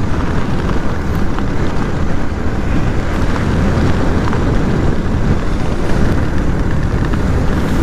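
Steady wind noise buffeting the camera microphone on a Yamaha R15 V3 motorcycle at riding speed, with the bike's engine running underneath.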